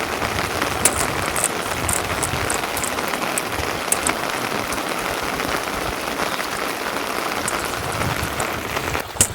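Steady rain falling, with scattered light ticks of drops. Near the end the sound briefly dips and there is a sharp click.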